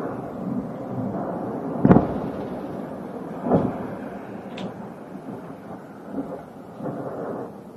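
Explosions at the ammunition depot heard from afar: a continuous rumble, with a sharp loud boom about two seconds in, another about three and a half seconds in, and a series of smaller cracks and thuds after.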